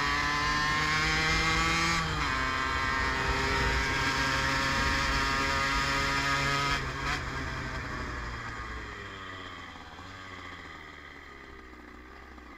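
Yamaha DT50's small two-stroke single-cylinder engine pulling under acceleration: the revs climb, drop sharply at a gear change about two seconds in, and climb again. About seven seconds in the throttle closes and the engine note falls away, getting quieter as the bike slows.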